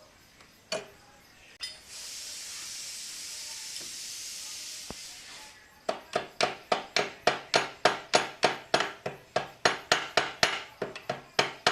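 Workshop sounds: a steady hiss lasting a few seconds, then a quick, even run of ringing metal-on-metal strikes, about four a second.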